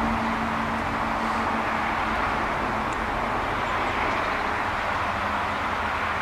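Steady outdoor rushing noise, with a low hum that fades out about halfway through.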